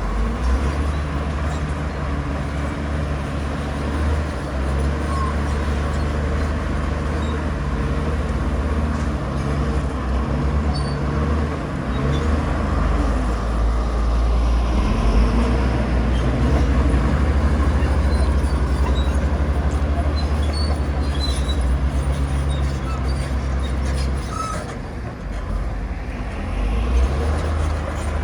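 Heavy diesel engines of earthmoving machinery running steadily with a low drone that eases briefly about three-quarters of the way through, then picks up again.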